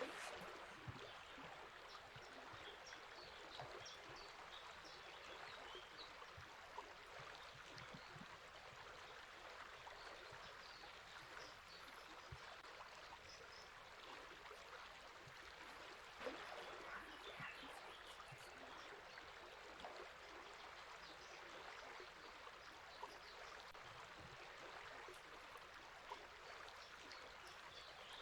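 A river flowing, a steady faint rush of water, with faint bird chirps scattered over it.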